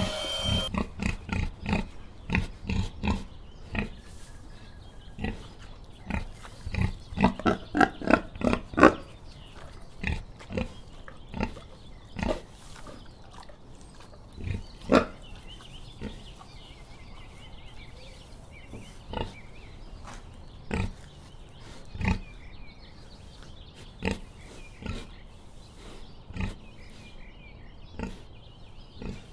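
Pig grunting: a string of short grunts, coming in a quick run about a third of the way in, then spaced out, roughly one a second.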